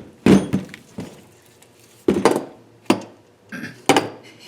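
Metal parts of a Nissan KA24DE cylinder head being knocked and clinked while the head is taken apart: a string of sharp separate knocks, about half a dozen over a few seconds, with a light ring after some of them.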